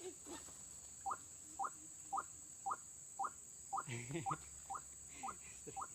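White-breasted waterhen (ruak-ruak) calling: a steady series of short rising notes, about two a second. A lower, briefer call joins about four seconds in.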